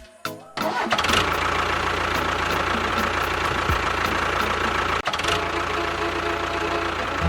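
A motor or engine starts up about half a second in and then runs steadily, with a brief dip about five seconds in.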